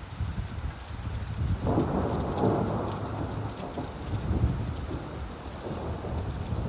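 Steady rainfall with a low rumble of thunder that swells about two seconds in, then slowly fades.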